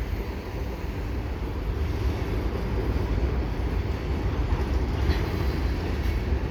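Freight train rolling by: a steady low rumble of wheels and cars on the rails, getting a little louder early on.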